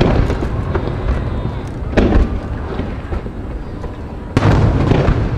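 Aerial firework shells bursting: one boom about two seconds in and another about four and a half seconds in, each followed by a long rolling rumble.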